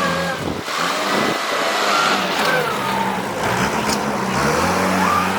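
Vehicle engine running with a steady low hum and a higher whine that drifts up and down in pitch, briefly dropping back about half a second and again about a second and a half in.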